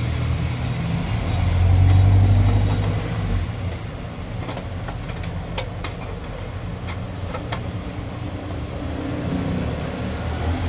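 Low rumble of background traffic that swells about two seconds in and then eases, with a few short, sharp clicks in the middle.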